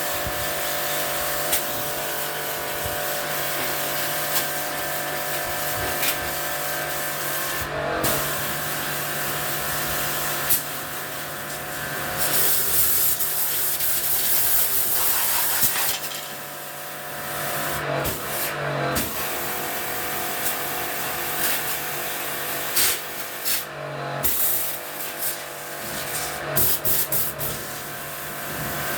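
Electric pressure-washer pump humming steadily while its water jet hisses, the spray pausing briefly several times as it is used to wash the air conditioner's coils.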